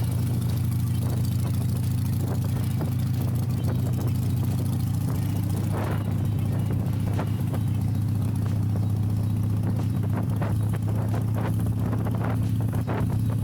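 2015 Harley-Davidson Iron 883's air-cooled V-twin, stage-II with Rinehart slip-on exhausts, running at a steady engine speed with an even, unchanging note. A run of short clicks sits over it in the last few seconds.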